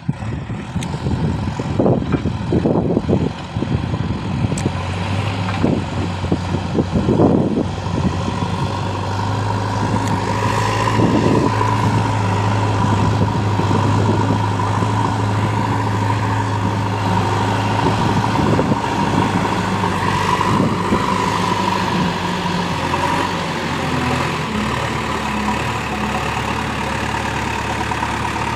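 Heavy diesel engine of a tractor-sized machine running steadily, with irregular thuds in the first several seconds.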